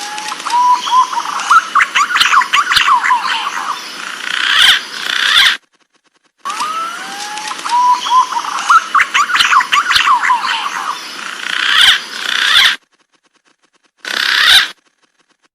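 Green pigeon (punai) calls: whistled notes that glide upward, then break into a quick run of fluty notes. The phrase comes twice, each time lasting about six seconds and separated by clean cuts to silence, as in a looped recording, with a brief snatch of the call near the end.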